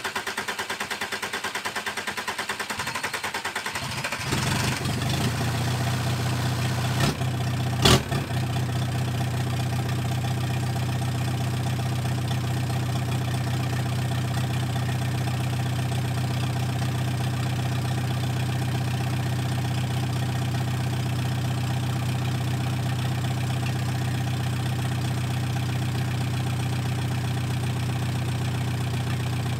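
VW 1.9 litre four-cylinder diesel engine cranking on its starter for about four seconds on a cold start, with only the fuel left in its lines, then catching and settling into a steady idle. Two sharp knocks sound a few seconds after it starts.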